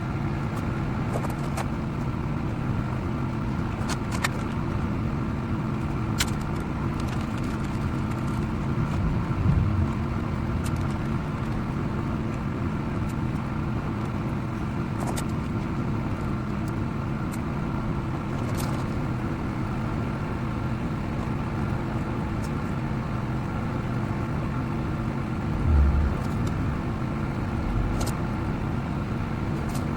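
A steady low mechanical rumble, like a running engine or motor, with scattered faint clicks and two brief low thumps, one about a third of the way in and one near the end.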